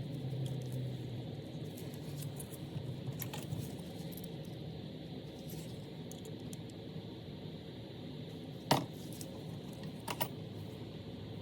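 Small metal parts clinking and tapping as they are handled, with a sharp click about nine seconds in and two more about a second later, over a low steady hum.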